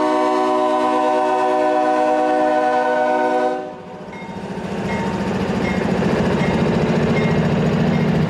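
Diesel freight locomotive's multi-chime air horn sounding a long chord that cuts off about three and a half seconds in, followed by the locomotive and train running past.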